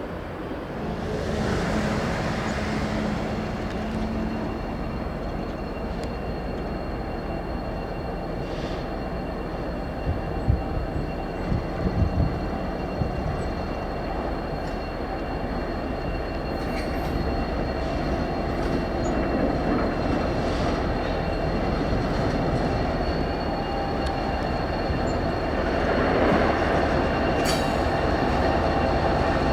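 Diesel-hauled freight train rolling slowly, with the steady rumble of engines and cars and a thin, steady squeal from the wheels. There are a few sharp thumps about ten to thirteen seconds in.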